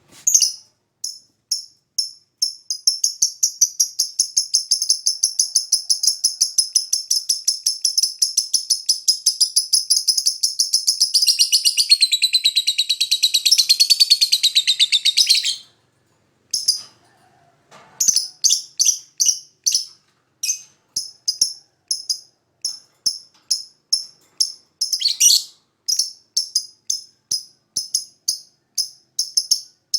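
Lovebird calling in high, shrill chirps. It holds one long, very rapid trill for about thirteen seconds, breaks off, then goes on with short chirps a couple of times a second.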